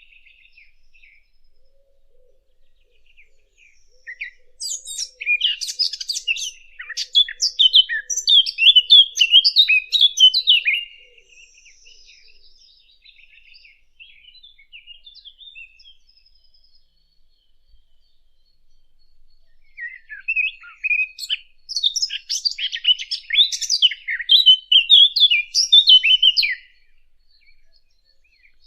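A Sylvia warbler (the 'fig bird') singing two long, rapid, warbling song phrases. Each phrase lasts about six to seven seconds: the first starts about four seconds in, the second about twenty seconds in. Faint twittering comes in between.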